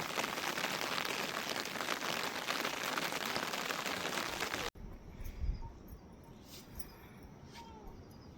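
Steady hiss of falling rain, cut off abruptly about two-thirds through, leaving a much quieter background with a few faint clicks and a short chirp.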